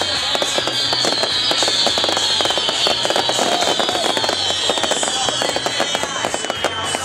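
Fireworks display with dense, rapid crackling throughout, mixed with a high whistling tone that slowly falls in pitch, over music.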